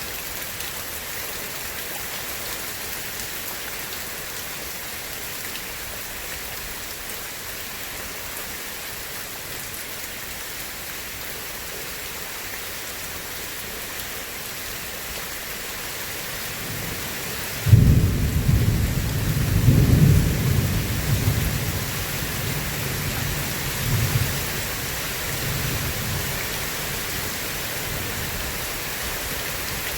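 Steady heavy rain, with a thunderclap breaking suddenly a little past the middle and rolling on in low rumbles for several seconds before dying away under the rain.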